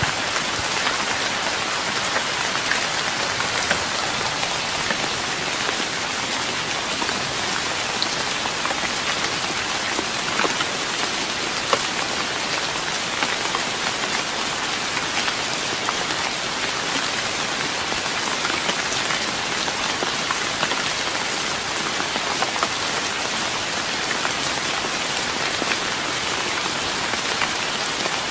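Steady rain pattering on a wooden deck, a dense hiss sprinkled with individual drop ticks.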